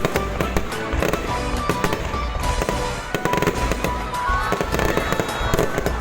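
Fireworks going off in rapid succession, a dense run of bangs and crackles with no pause, over music playing underneath.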